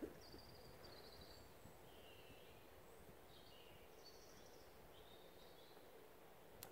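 Near silence with faint, scattered bird chirps and short high trills over a low steady hiss, a soft knock at the very start and a sharp click near the end.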